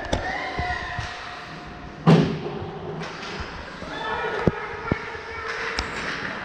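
Ice hockey play: a loud thud about two seconds in, then several sharp clacks of sticks on the puck, over spectators' voices.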